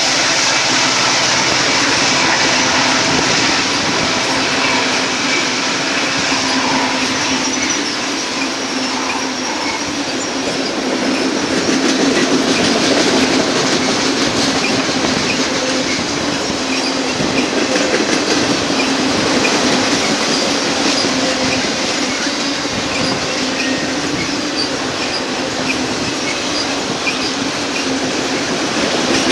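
Union Pacific auto rack cars rolling steadily past, their wheels clacking over the rail joints.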